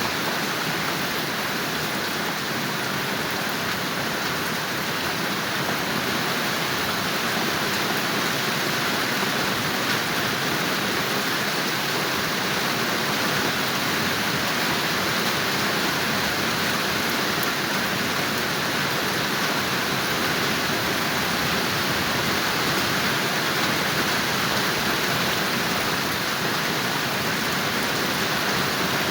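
Steady heavy rain falling, an even hiss with no break.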